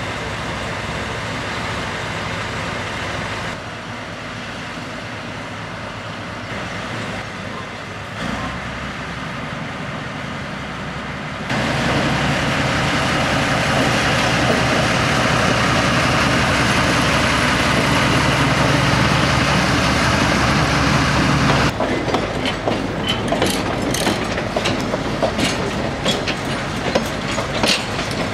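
Narrow-gauge diesel locomotive hauling passenger coaches past, its engine running loud and steady as it passes close about halfway through. After that the coaches roll by with a quick run of wheel clicks over the rail joints.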